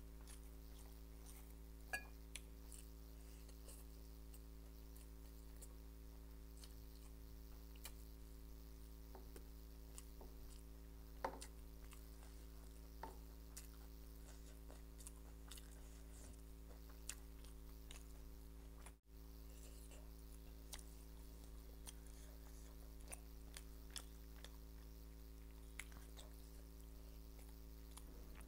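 A person eating by hand, with faint chewing and occasional sharp mouth clicks over a steady low hum. The loudest click comes about 11 seconds in.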